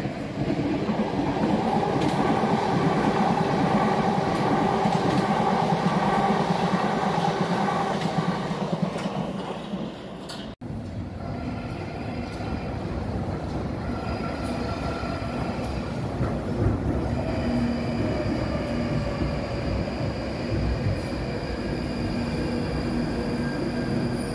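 Train running with a steady rumble for about ten seconds. After a sudden cut, a London Underground Northern line train (1995 Tube Stock) pulls into an underground platform, with a whining tone over the rumble as it arrives and runs past.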